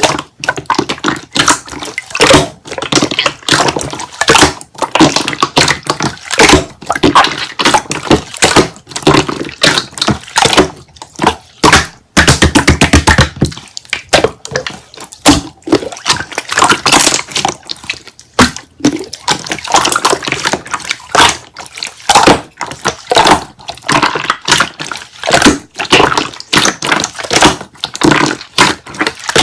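Slime being squeezed, pressed and stretched by hand: a continuous run of wet clicks, pops and squelches, with a stretch of rapid crackling about twelve seconds in.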